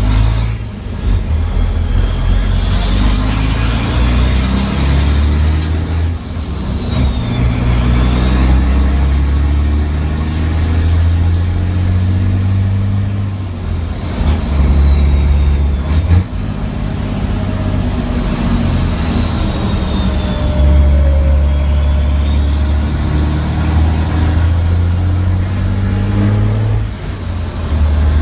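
Racing truck's diesel engine at full load heard from the cab, pulling hard with a high whine that rises and falls with engine speed. The engine note dips briefly several times, at gear changes and braking.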